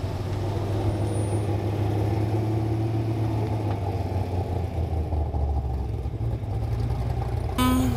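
A car engine running steadily at low revs, a continuous low rumble.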